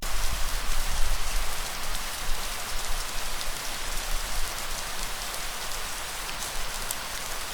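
Steady light rain falling: an even hiss with scattered sharper ticks of single drops, over a low rumble that is stronger in the first couple of seconds.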